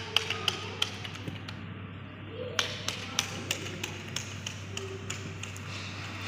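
Cutlery and dishes clinking and tapping on a table, in scattered short, sharp clicks, over a steady low hum.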